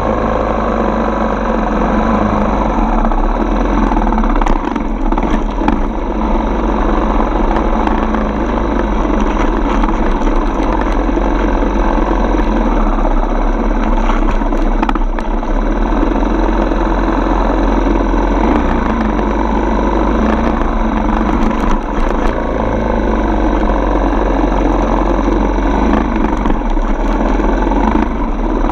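Dirt bike's single-cylinder four-stroke engine running steadily, with a few short ticks scattered through.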